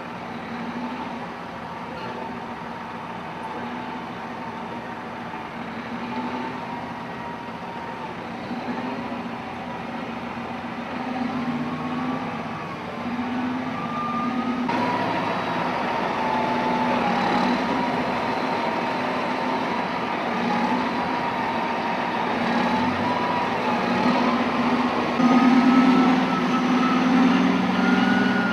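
Heavy diesel construction machinery running under load, its engine note and a higher whine rising and falling as it works. The sound changes abruptly about halfway through and grows louder toward the end.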